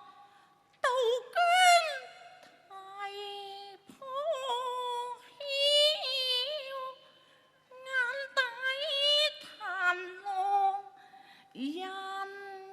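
Cantonese opera music: a high melodic line with strong vibrato, in short phrases that break off briefly near the start and again about seven seconds in.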